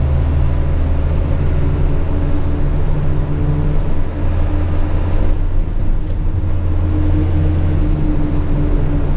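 Diesel engine of a Hino 500 FM 260 JD ten-wheel truck running steadily under way, heard inside the cab as a loud, even drone with road noise. About five seconds in the higher sound drops briefly, then the drone carries on.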